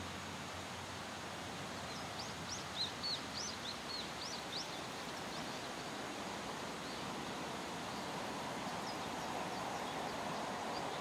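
Steady outdoor background noise, with a small bird chirping in quick, upward-flicking notes from about two to five seconds in. In the second half a faint hum builds as a 381-series electric train approaches.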